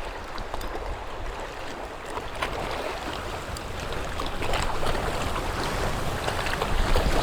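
Sea water washing against a rocky shore, with wind rumbling on the microphone; the sound grows slowly louder toward the end.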